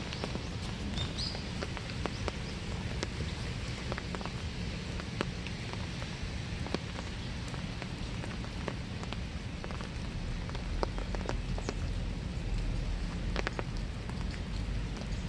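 Steady winter rain falling, with separate drops ticking at irregular moments throughout. A low rumble joins in from about ten seconds in.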